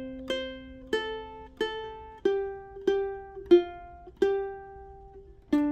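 ʻUkulele picked one note at a time in a slow, even melody, about one note every two-thirds of a second. Each note rings and fades before the next, with a louder pluck near the end.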